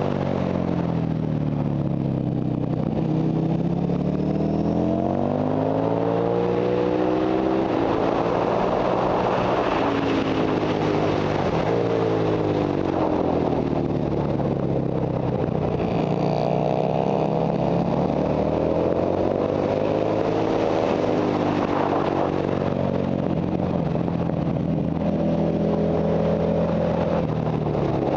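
Ducati Monster Evo motorcycle's V-twin engine heard from onboard at track speed, its pitch repeatedly climbing under acceleration and dropping under braking and gear changes, with wind rush over the microphone.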